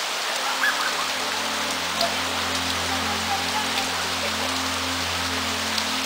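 Heavy monsoon rain pouring steadily onto grass, leaves and garden ground, an even hiss with scattered drop ticks close by.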